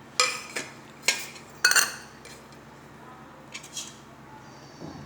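Kitchen utensils and dishes clinking and knocking against a bowl: four sharp clinks in the first two seconds, then two fainter ones later on.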